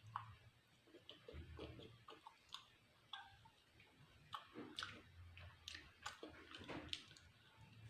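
Faint eating sounds: chewing with scattered small mouth and utensil clicks, irregularly spaced.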